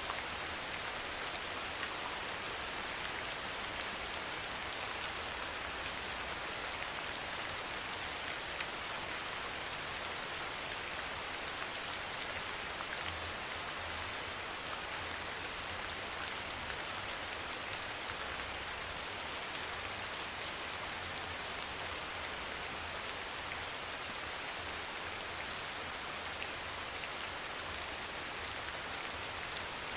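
Steady soft rain falling, an even hiss with many small scattered drop ticks.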